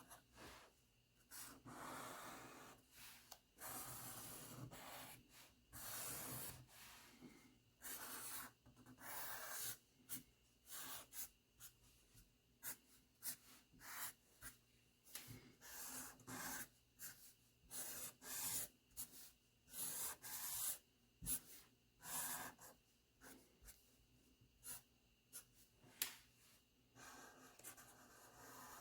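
Faint drawing on paper: a drawing tip making many short quick strokes and dabs with some longer scribbling strokes, at an irregular pace.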